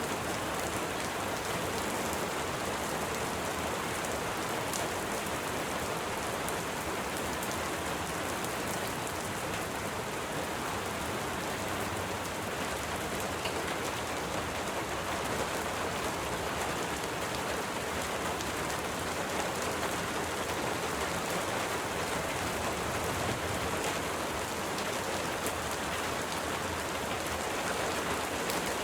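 Steady rain falling on a surface, a continuous even hiss with scattered small drop ticks.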